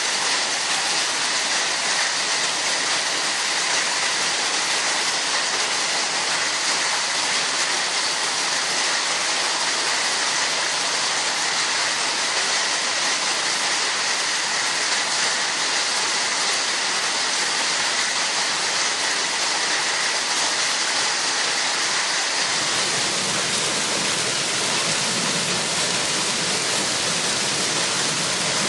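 Heavy rain pouring down in a storm, a steady dense hiss with no letup. A little more low rumble comes in after about twenty seconds.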